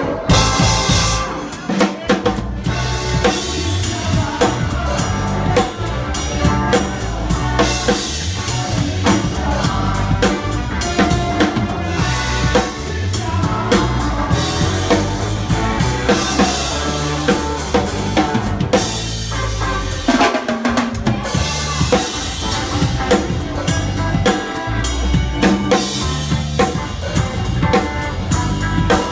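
Live rock band playing, with the drum kit loud and close: a steady beat of bass drum and snare over the rest of the band.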